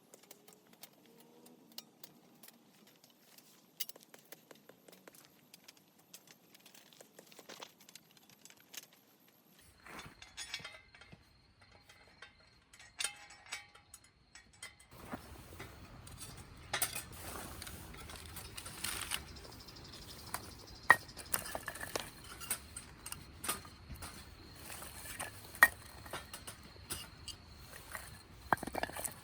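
Light clinks, clicks and taps of small hard objects being handled, scattered irregularly, growing denser with a steady hiss behind them from about halfway through.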